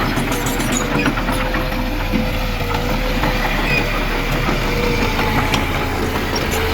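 Heavy machinery diesel engine running steadily, a low rumble with a slightly wavering hum.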